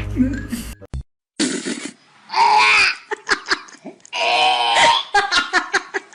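A person laughing hard, in loud voiced bursts followed by rapid short ha-ha pulses.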